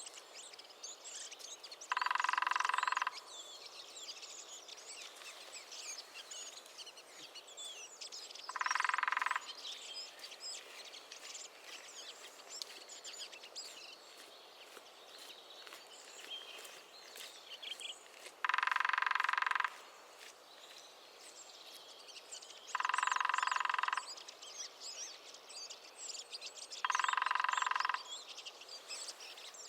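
Lesser spotted woodpecker sounding in five even bursts about a second long, several seconds apart, over a background of small birds chirping.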